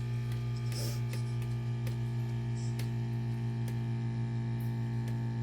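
Resin debubbler machine running with a steady electric hum, with faint irregular ticks over it.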